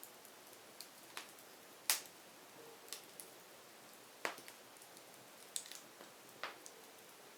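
Wood fire crackling: a faint steady hiss with irregular sharp pops and snaps from the burning firewood, the loudest about two seconds in.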